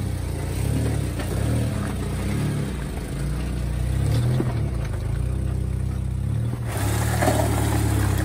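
Jeep Wrangler's engine running at low revs under load as it crawls over a rock, its note rising and falling with the throttle.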